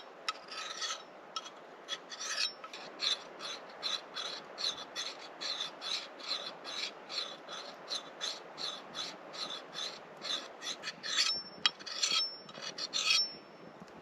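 A blunt axe blade being sharpened by hand: quick rasping strokes of a sharpening tool along the steel edge, about two a second, with a brief thin metallic ring off the blade a few times near the end.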